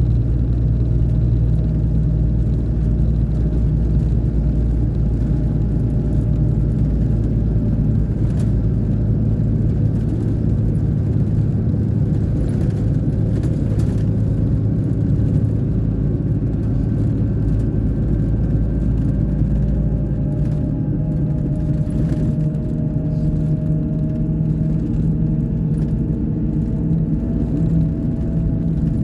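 Scania K420 coach's diesel engine running steadily under way, a deep continuous drone, with a faint whine that rises slowly in pitch in the second half.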